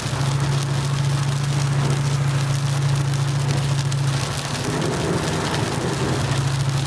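Heavy rain falling on a moving pickup truck, heard from inside the cab over a steady low engine hum that drops away for a couple of seconds past the middle.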